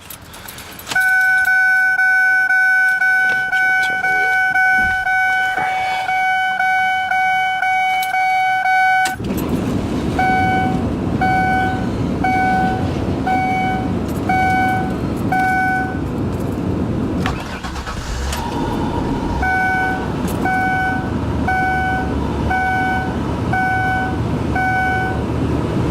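Ford Taurus warning chime pulsing for several seconds, then the car's 3.0-litre Vulcan V6 cranks and catches about nine seconds in and runs at a cold idle, with a brief dip around the middle that fits the stumble the owner says it does in the cold. Two runs of six evenly spaced chime beeps sound over the running engine.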